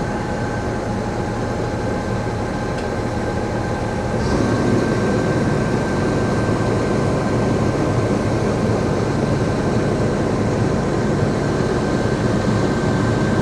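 Heavy crane's diesel engine and hydraulics running steadily, with a thin, steady whine over the rumble; it gets louder about four seconds in as the lift is worked.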